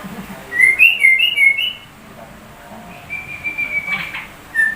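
Yellow-vented bulbul (trucuk) singing shama-like song: a quick run of clear whistled notes stepping up and down, then one long steady whistle about three seconds in, with more notes starting near the end.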